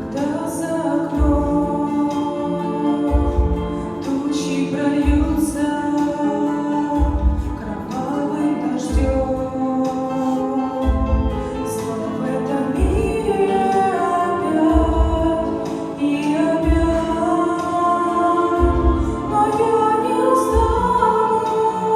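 Female vocal trio singing a Russian-language Christian song in harmony over an accompaniment, with a low bass note about every two seconds.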